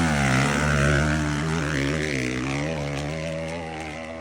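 Monster truck engine running hard, its pitch wavering up and down as the throttle works, then slowly getting quieter toward the end.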